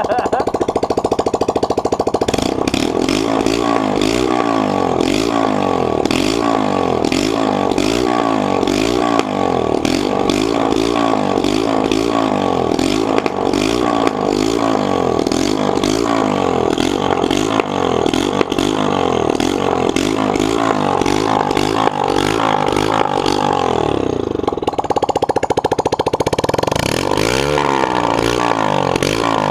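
Yamaha YBR125's single-cylinder four-stroke engine revved through its exhaust in repeated quick throttle blips, about one a second. Near the end it steadies briefly, then rises and falls once more.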